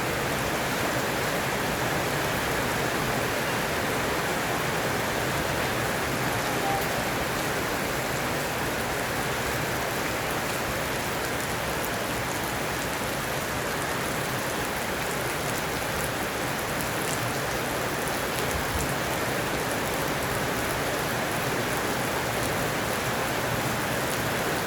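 Heavy rain falling steadily, a constant dense hiss of rain on surfaces.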